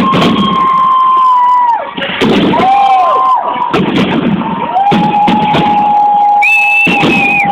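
A fireworks display with repeated bangs of shells bursting over a noisy crowd. Long steady whistling tones sound over it, each falling in pitch as it ends.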